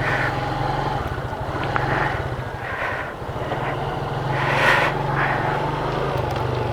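Motorcycle engine running steadily while riding, picked up by a helmet camera's external microphone, with a brief swell of rushing noise about four and a half seconds in.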